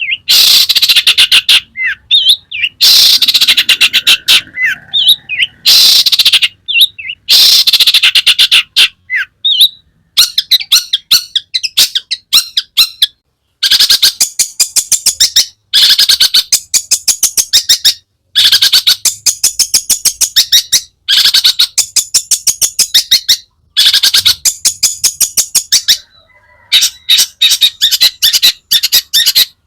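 Long-tailed shrike (cendet) in full song: bouts of fast, harsh, scratchy chattering notes, each a second or two long with short pauses between, its song filled with mimicked calls of other birds.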